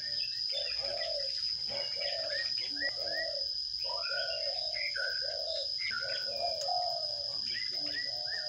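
Sparrows chirping again and again, mixed with a run of lower repeated calls about twice a second, over a steady high-pitched whine.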